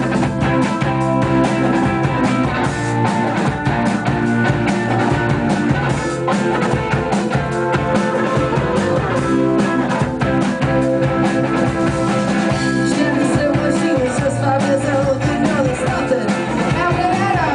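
Live rock band, with electric guitars, bass and drum kit, playing the instrumental intro of a cover song, loud and continuous.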